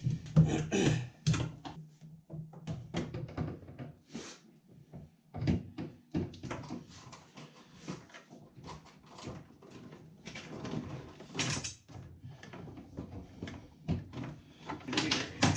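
Hands working on an outboard motor's cables and fuel line: a string of irregular clicks, light knocks and rustling as the lines are routed and tucked in.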